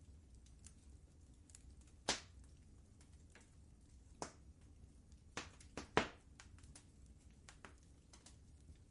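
Fireplace fire crackling: irregular pops and snaps over a low steady rumble, the sharpest pops about two seconds in and about six seconds in.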